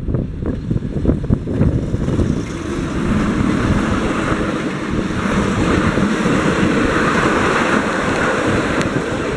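Matterhorn Gotthard Bahn Deh 4/4 II narrow-gauge electric motor car and its coaches passing at close range: a steady rumble of wheels on rail as the coaches roll by, with wind buffeting the microphone.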